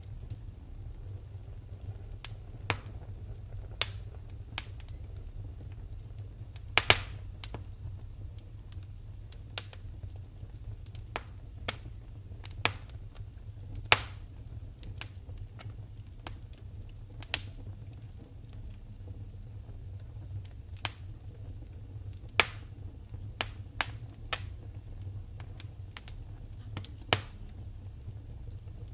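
Wood fire in a fireplace crackling: irregular sharp pops, roughly one or two a second, the loudest about 7 and 14 seconds in, over a steady low rumble.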